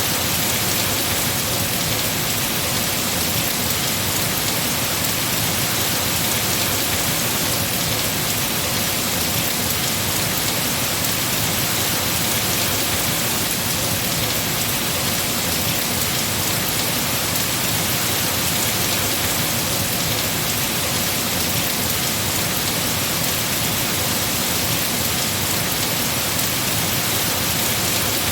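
Heavy rain falling on trees, a steady even hiss of drops on leaves that does not change in strength.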